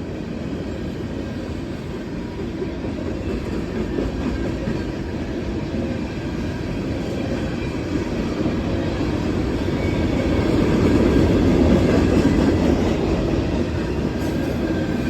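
Freight train cars rolling past on the rails in a steady rumble, growing louder about ten seconds in.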